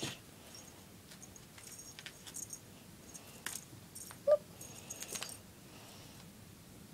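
Light scattered rustling and clicking, like a cat toy being batted, with one short, pitched mew from a kitten about four seconds in, the loudest sound.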